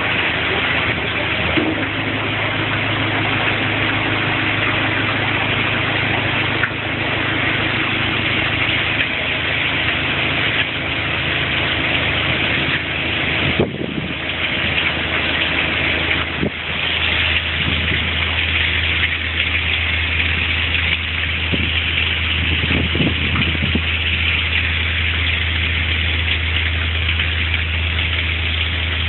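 Boat engine running steadily at idle, its low hum shifting in note about a second and a half in and again just past halfway, under a steady hiss.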